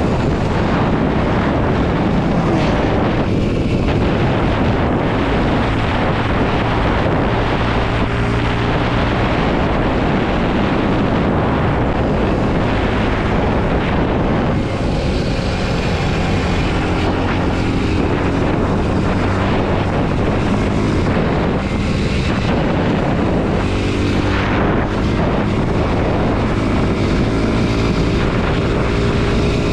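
Kawasaki KLX230 SM's single-cylinder engine running while riding, its pitch rising and falling with the throttle, with wind noise on the microphone.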